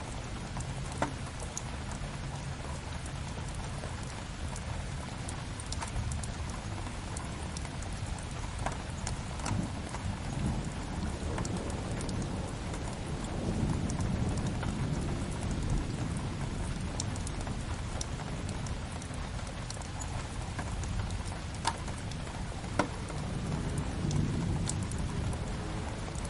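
Steady rain together with a crackling log fire, a low rumble swelling now and then under an even hiss. Sharp pops from the fire come scattered through, the loudest about a second in and twice near the end.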